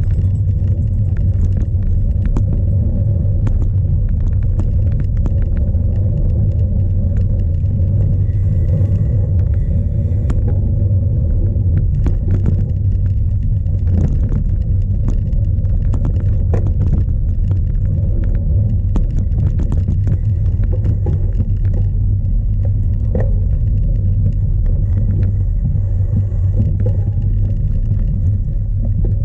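Strong wind buffeting the microphone of a camera mounted on a cyclocross bike, heard as a loud, steady low rumble. Scattered clicks and rattles from the bike riding over rough ground run through it.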